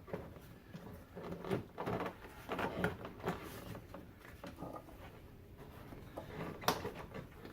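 Plastic air intake box of a BMW E46 being handled and fitted into place: irregular plastic knocks and scrapes, with one sharper knock near the end.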